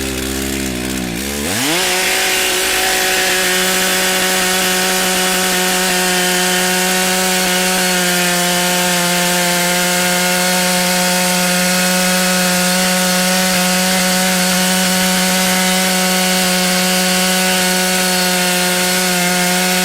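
Stihl MS880 two-stroke chainsaw at low engine speed, revving up sharply about a second and a half in, then held at a steady full-throttle whine while cutting through a firewood round.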